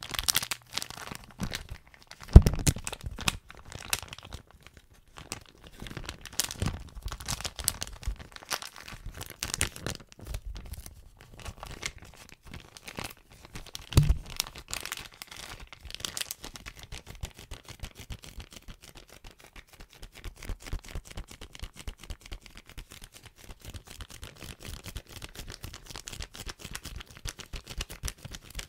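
Plastic bag being crinkled and crumpled, a dense crackling with two louder thumps, one about two seconds in and one about halfway through.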